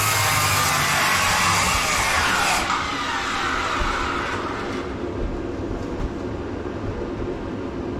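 Power saw cutting through the mobile home's floor. It runs loud and whining, stops about two and a half seconds in, and dies away by about the middle.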